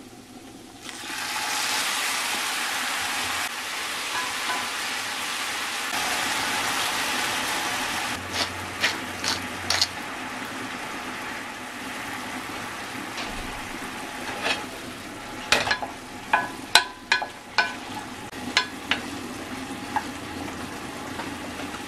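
Food sizzling in hot oil in a frying pan. The sizzle starts suddenly about a second in as food goes into the pan, then eases, and a utensil clinks and taps against the pan a dozen or so times.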